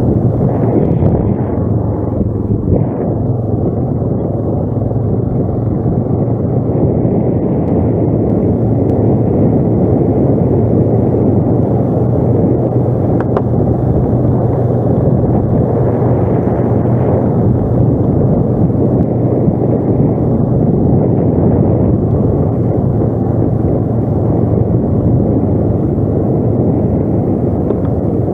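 ATV engine running steadily, with a constant low drone and no change in pitch.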